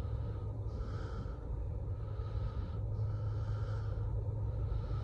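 Freight train rolling past: a steady low rumble, with a soft hiss that swells and fades about every two seconds.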